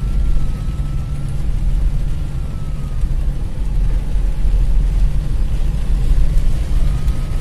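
Car engine running in slow traffic, heard from inside the cabin as a steady low rumble.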